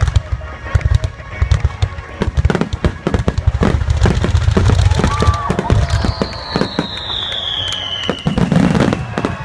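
Fireworks shells bursting in quick succession, a dense run of sharp bangs and deep booms. A long whistle falls slowly in pitch through the second half.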